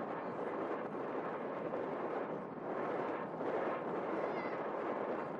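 Steady rushing roar of an Airbus A320-214's CFM56 jet engines, mixed with strong gusty wind buffeting the microphone.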